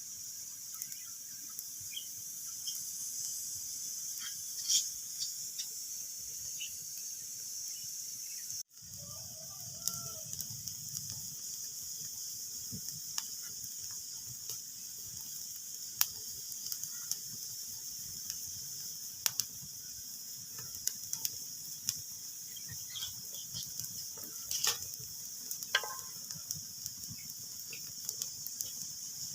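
Wood fire crackling: a steady hiss with scattered sharp pops and snaps. The sound cuts out for a moment about nine seconds in.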